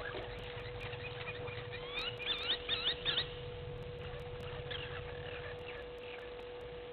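Birds calling: a quick series of looping, rising whistles about two seconds in, and fainter calls around five seconds. A steady hum runs underneath.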